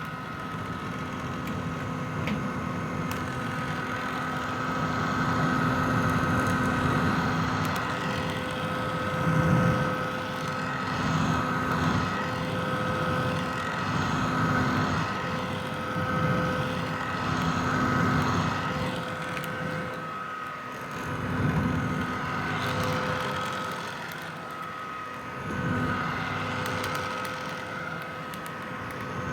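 Vintage hair dryer running continuously: a steady rush of blown air with a constant motor whine. Its loudness rises and falls every few seconds.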